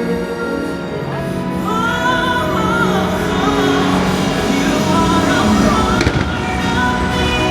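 Fireworks-show soundtrack music playing over loudspeakers: a gliding melody line over sustained chords, with a single firework bursting about six seconds in.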